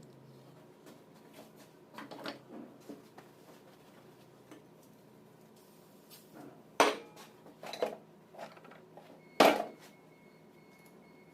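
Metal tools and parts being handled during alternator repair: a few scattered clinks and knocks, the loudest two about seven and nine and a half seconds in.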